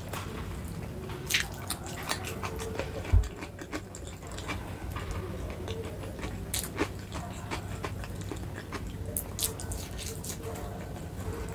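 Close-miked eating: a person chewing food, with scattered short wet mouth clicks over a steady low hum, and one dull thump about three seconds in.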